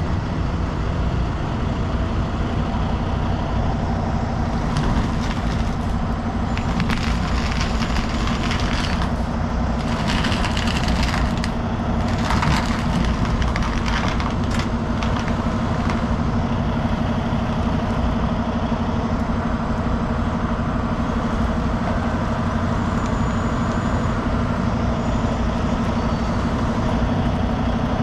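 Heavy diesel truck engine running steadily under a recovery pull. From about five to fifteen seconds in, crackling and crunching noises come and go over it.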